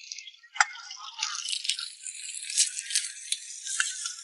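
Food frying in hot oil in a wok, a steady sizzle with many sharp crackling pops, starting about a second in. Just before it there is a single sharp knock on the cutting board.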